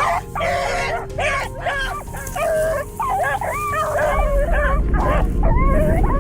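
Hunting dogs barking and yipping excitedly in quick, uneven calls, with whines between them. A low rumble rises under them about two-thirds of the way through.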